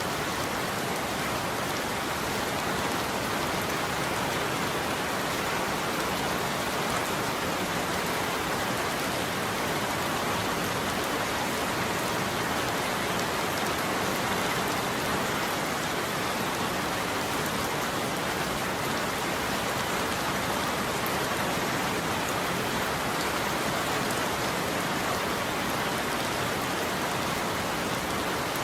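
Steady heavy rain falling and pattering on surfaces, an even wash without distinct drops standing out and no thunder.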